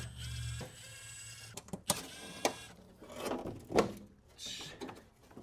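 Power tool motor whirring for about a second and a half as it runs out the heat-shield fasteners, followed by a series of sharp metallic clicks and knocks.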